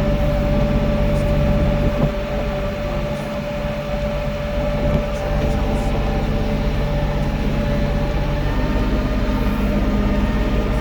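Tractor engine running steadily under work, with a steady whine over it that fades about halfway through.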